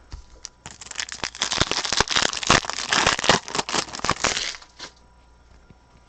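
Foil wrapper of a trading-card pack being torn open and crinkled: a dense crackling that starts just under a second in and stops after about four seconds.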